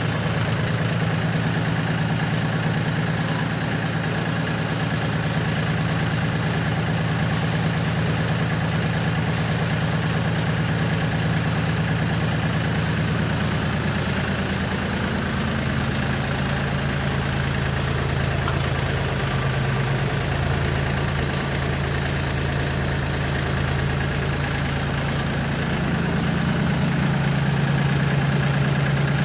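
Tractor engine running under a hydraulic front loader. Its steady note drops about halfway through and grows a little louder near the end.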